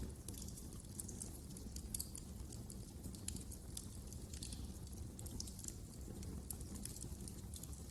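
Wood fire crackling: frequent irregular sharp pops and snaps over a low, steady background noise.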